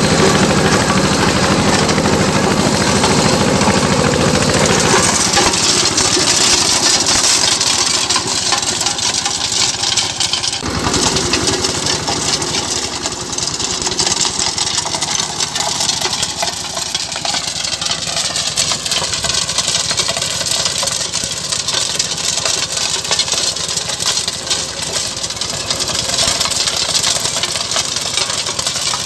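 Eicher 188 mini tractor's diesel engine running, with an abrupt change in its sound about ten seconds in.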